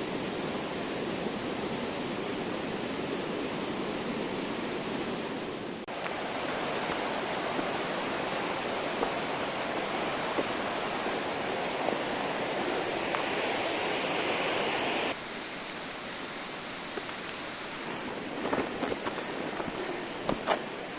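Steady rush of a mountain stream's flowing water, changing abruptly twice. A few light clicks and knocks come near the end.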